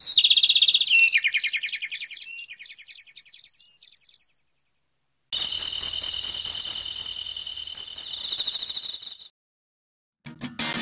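A bird singing in rapid, repeated high chirping phrases that fade out after about four seconds, then, after a short gap, a steady high-pitched insect trill for about four seconds. A strummed guitar comes in right at the end.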